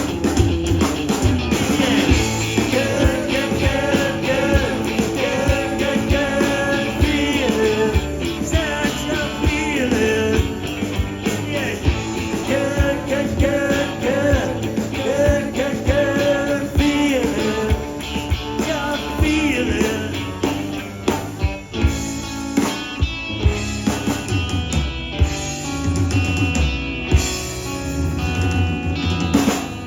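Live blues-rock band playing an instrumental passage of the song, with a lead instrument holding and bending long notes over the rhythm section.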